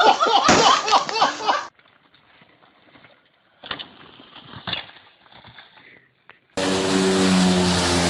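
A jumbled burst of loud sound for under two seconds, then a quiet stretch with a few faint knocks. About six and a half seconds in, a motor vehicle's engine cuts in suddenly and runs steadily.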